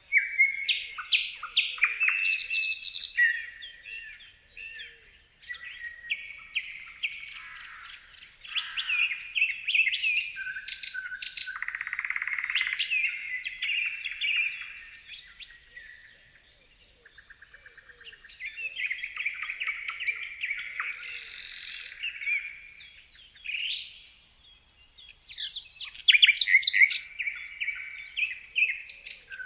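Several songbirds chirping and singing at once, a dense mix of quick chirps, whistled notes and trills, with a brief lull just past the middle where a fast ticking series is heard.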